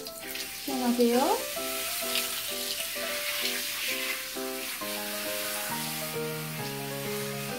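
Hand-held shower head spraying water onto a dog's wet coat, a steady hiss, with background music playing over it.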